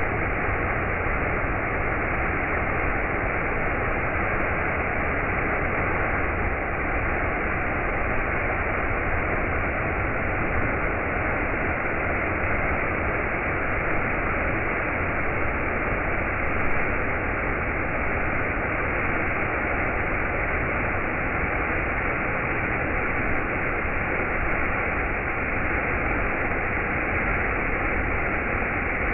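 Steady, even hiss-like noise with no distinct events, and a faint steady tone running under it.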